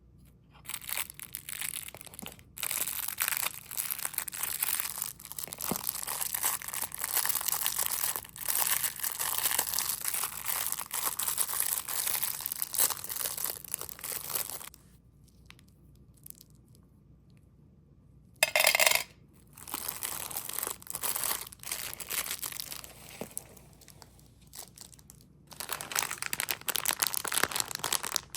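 Candy wrappers and packaging being crinkled and torn open in close-up, a dense crackling that stops for a few seconds in the middle, with a short louder crackle just after the pause, then more crinkling.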